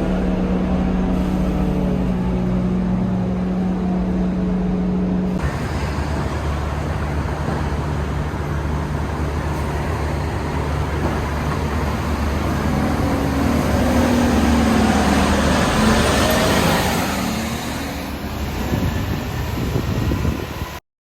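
Scania K230UB city bus running under way, with a steady engine note that drops in pitch about five seconds in and road noise that swells for a few seconds later on. The sound cuts off suddenly near the end.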